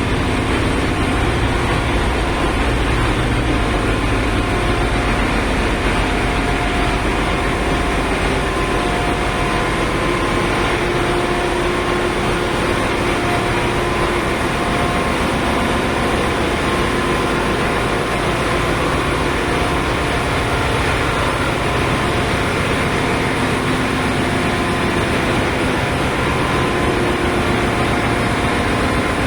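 Ship's engine-room machinery running: a loud, steady drone with faint humming tones that fade in and out.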